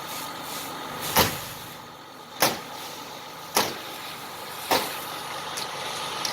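Five sharp knocks at an even pace, about one every 1.2 seconds, over the steady hum of an idling engine.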